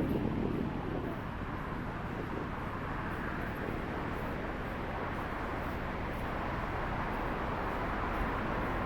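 Steady city street traffic: a continuous wash of vehicles passing, with a louder low rumble that fades about a second in.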